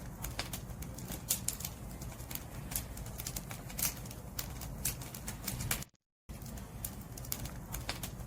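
Firewood burning in a bonfire: frequent sharp crackles and pops over a low, steady rumble. The sound cuts out completely for about a third of a second, roughly two-thirds of the way in, then carries on.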